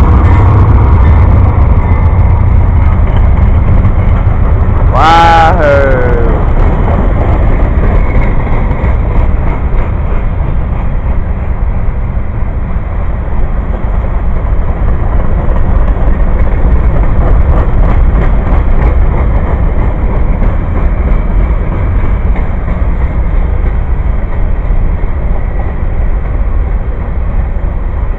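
Train cars rolling past close by, a loud steady low rumble. About five seconds in there is one short sound that falls in pitch.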